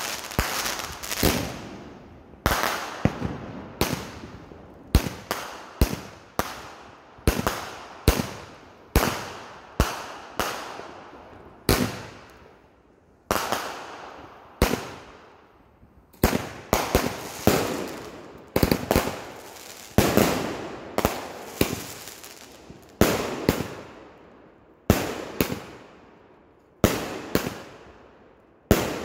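Aerial fireworks shells bursting overhead in a rapid, irregular series of sharp bangs, about one to two a second. Each bang fades away over a second or so, with a short lull about halfway through.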